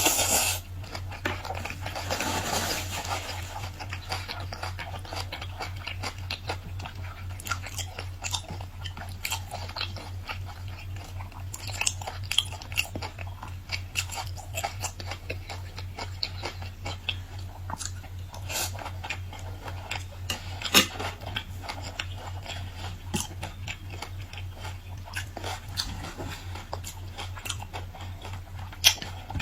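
A person chewing and crunching peeled shrimp with cilantro: a continuous stream of small crackles and clicks, with a few sharper crunches, over a steady low hum.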